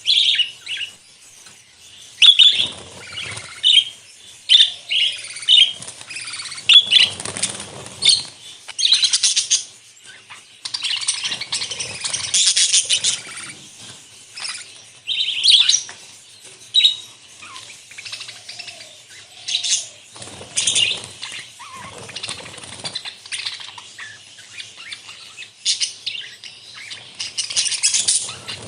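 A flock of budgerigars chirping and chattering, many short calls overlapping without a break, with louder bursts every few seconds.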